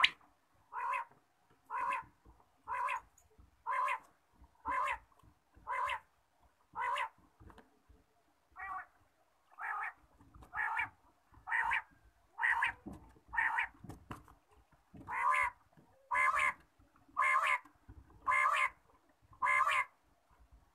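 A bird calling: short calls repeated about once a second, some twenty in a row, with a brief break about eight seconds in and the calls louder after it.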